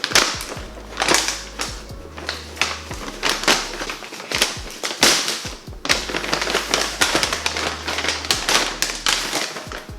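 Takeout food packaging being handled and unpacked: dense, irregular crinkling and rustling with many sharp crackles, over background music with a low bass line.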